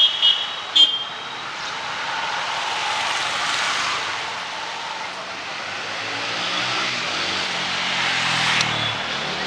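Street traffic on a wet road: tyres hissing as vehicles pass, with an engine note rising and then falling in the last few seconds. Two short high chirps sound within the first second.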